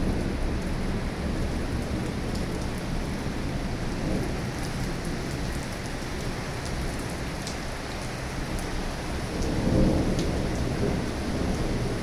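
Heavy rain falling steadily, with scattered sharp drop ticks and a low rumble that swells about ten seconds in.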